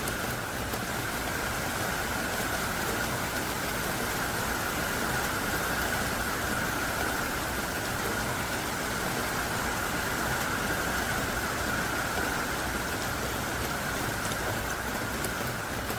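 Heavy, steady downpour of thick raindrops, an even dense hiss with no let-up.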